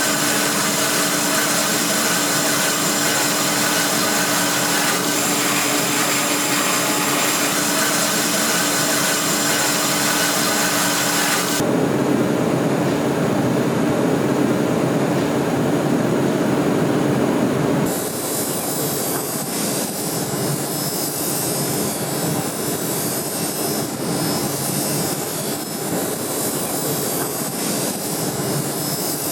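Electric power tool running continuously under load with a steady whine over a rough noise. About twelve seconds in the sound turns duller, and at about eighteen seconds it turns brighter again.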